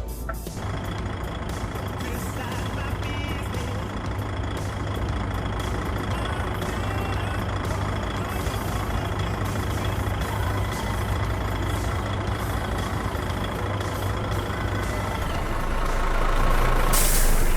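Truck driving along, a steady engine and road drone with a thin high whine, growing louder in the last couple of seconds.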